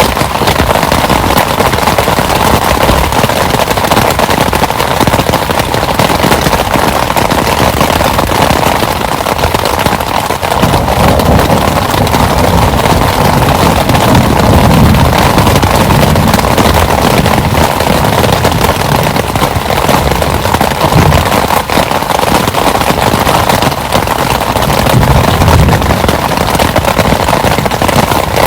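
Heavy rain falling hard, a dense, steady crackle of drops. A low rumble swells about ten seconds in and again near the end.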